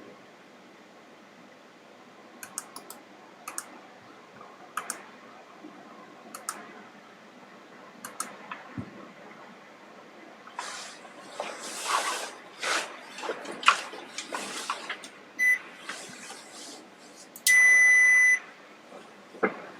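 An electronic beeper sounds a short high beep and then, near the end, a steady high beep of about a second, the loudest sound here. Before it come scattered light clicks and several hissing bursts.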